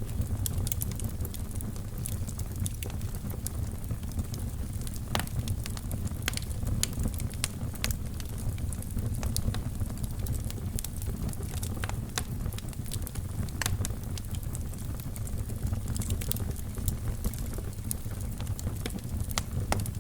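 Wood fire burning in a fireplace: a steady low rumble of flames with frequent irregular crackles and occasional sharper pops.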